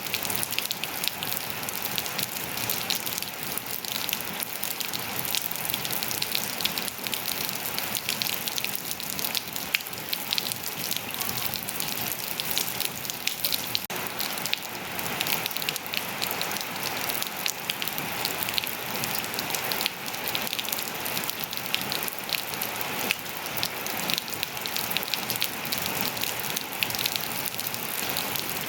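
Steady rain falling on surfaces: an even hiss dotted with many close drop ticks.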